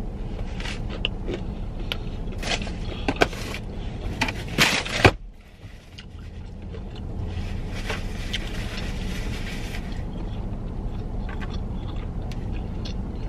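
Chewing a mouthful of crispy Popeyes fried chicken sandwich: a run of crunching clicks over the first five seconds, loudest just before the fifth second, then quieter chewing. A steady low hum inside the car lies under it.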